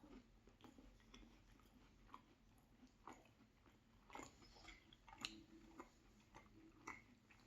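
Faint close-miked chewing: scattered mouth clicks and a few sharper crunches a second or so apart.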